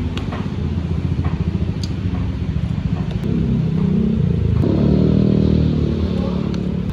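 A motor vehicle engine running close by, its pitch shifting and rising around the middle, with a few light clicks.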